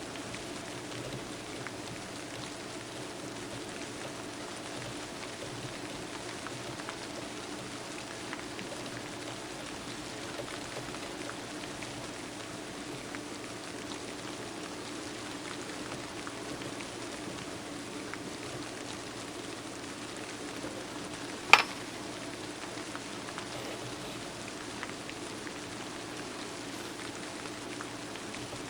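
Steady rain ambience, with a single sharp click about two-thirds of the way through.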